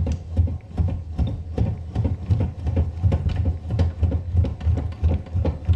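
Irregular clicks, knocks and rattles of metal parts and tools being handled while the drill press is assembled, over a pulsing low rumble.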